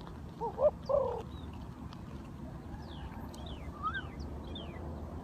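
Birds calling: two short low calls about half a second and a second in, then several thin, falling chirps from small birds around three to four seconds in.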